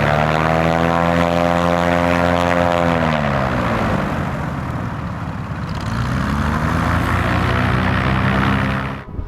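Cessna 337 Super Skymaster's twin piston engines and propellers droning: the pitch holds steady, falls about three seconds in, then rises and levels out again around six to seven seconds, and the sound cuts off abruptly near the end.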